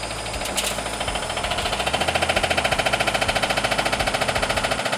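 Front-loading washing machine with worn drum bearings running on spin: a rapid, even clatter of knocks, about ten a second, that grows louder about a second and a half in.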